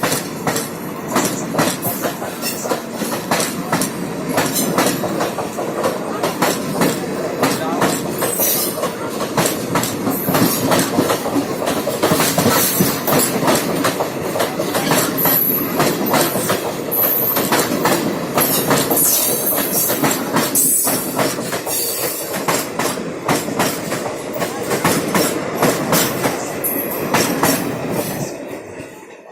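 A train passing close by, its wheels clattering in a rapid stream of clicks over the rail joints, with a few brief high wheel squeals in the middle; the clatter fades away near the end. The track is the one the uploader calls damaged and rusted.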